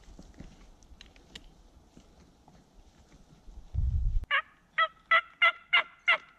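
A series of six turkey yelps, evenly spaced about a third of a second apart, starting about four seconds in. They are preceded by a short, low rumble.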